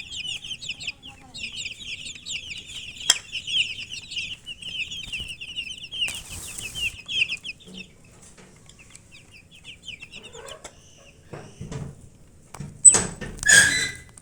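A brood of baby chicks peeping, many rapid high-pitched peeps at once, which the uploader takes for chicks thirsty for water. The peeping thins out after about seven seconds, and near the end a loud short scuffling burst breaks in.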